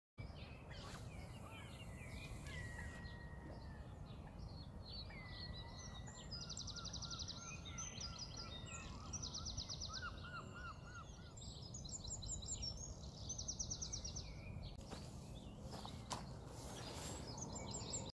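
Morning outdoor ambience by a lake: songbirds singing, with whistled notes near the start and several fast, high trills repeated through the middle, over a steady low background rumble.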